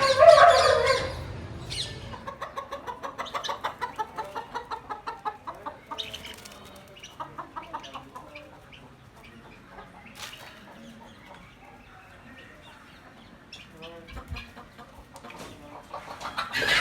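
Chickens clucking: a quick run of short clucks, about four or five a second, for several seconds, then quieter, scattered clucks.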